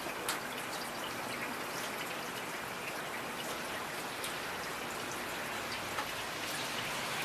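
Steady rain falling, with individual drops ticking distinctly on a surface over an even hiss.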